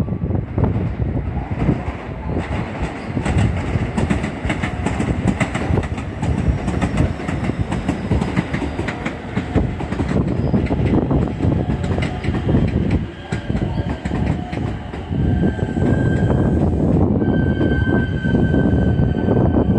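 Electric commuter train running on the tracks at a station, its wheels clattering over rail joints. A steady high whine comes in about three-quarters of the way through and holds to the end.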